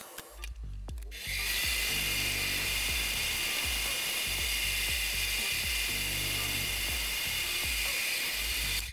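A power tool with a high-pitched whine runs steadily for about seven seconds, starting a little over a second in and cutting off suddenly near the end, over background music with a steady bass line.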